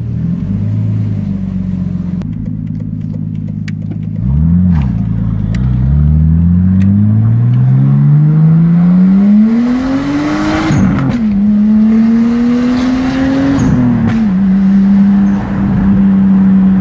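Turbocharged car engine pulling through the gears: a short rev blip about four seconds in, then the revs climb steadily for several seconds to a gear change with a burst of hiss. The revs climb again briefly, then drop to a steady cruising note.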